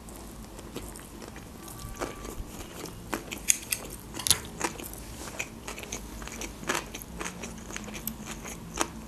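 Close-miked chewing of a sushi roll: wet mouth sounds with irregular sharp clicks and smacks, a few louder ones a little past the middle.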